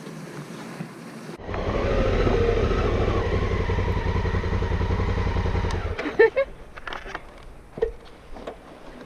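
Adventure motorcycle engine running on a dirt track, a dense, evenly pulsing low drone that starts abruptly about a second and a half in and cuts off abruptly about six seconds in. Afterwards there are a few faint knocks and clatters.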